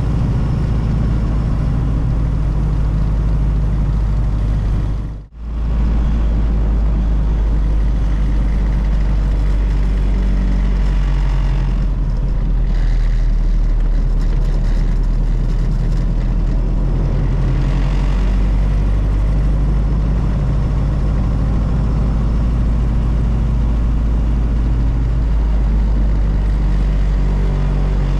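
1932 Ford Model B's four-cylinder engine running steadily at driving speed, heard from inside the cab along with road rumble. The sound drops out for a moment about five seconds in and comes straight back.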